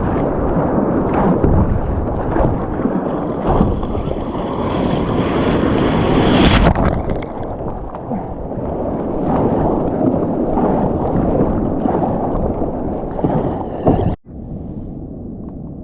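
Wind buffeting the microphone over open sea, with the wash and slosh of water around a kayak. The sound turns duller about six and a half seconds in and cuts out abruptly near the end.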